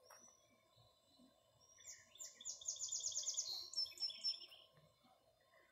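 A small songbird singing: a quick run of about a dozen high, evenly repeated chirps lasting just over a second, then a shorter, lower trill.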